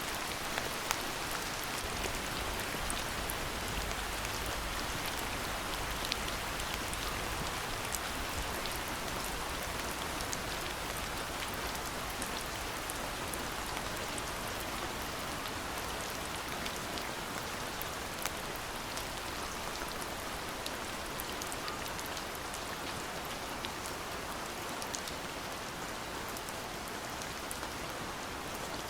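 Steady rain falling, an even hiss with many scattered, distinct drop taps throughout.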